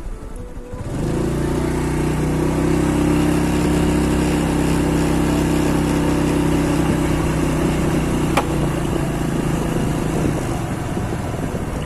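An engine idling steadily, with a single sharp click about eight seconds in.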